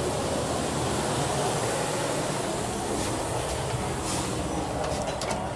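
Steady engine hum and hiss of a diesel-hauled passenger train standing at the platform, with a few light clicks in the second half.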